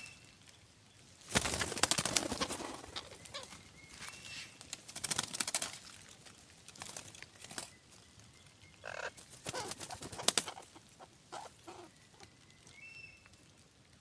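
Birds: a few short, high chirps between several loud bursts of rustling and wing-flapping.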